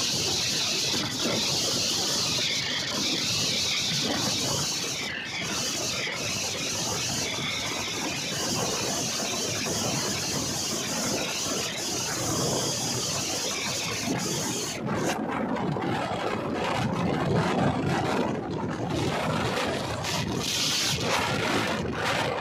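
Indian Railways passenger train (the Paharia Express) running along the track, a steady noise of wheels on rails and the moving coach, with the high hiss thinning out about two-thirds of the way through.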